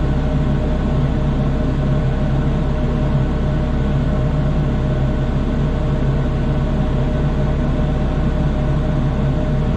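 A heavy engine running steadily at constant speed, a low, even drone with no change in pitch or level.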